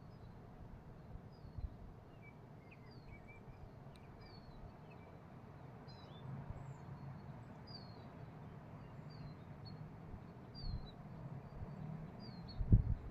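Small birds chirping: many short, high notes scattered throughout over a faint outdoor background, with a faint steady low hum in the middle. Loud low thumps come in near the end.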